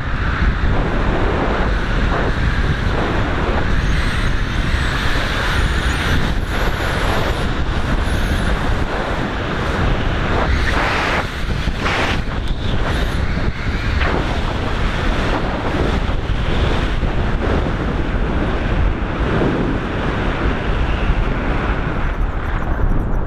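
Strong wind buffeting the microphone in flight: a loud, continuous rushing that swells and eases in gusts.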